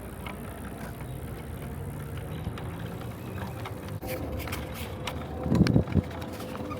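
Bicycle rolling along a park path while the rider films: steady rumble of tyres and wind on the microphone, with clicks and rattles from about four seconds in and two loud knocks, as over bumps, near the end.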